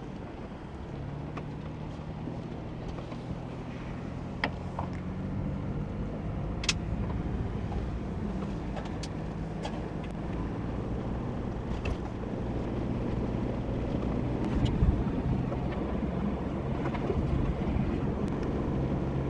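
Ford Bronco's engine running as it drives a rough dirt trail, a steady low hum under rumbling noise, with scattered sharp clicks and knocks.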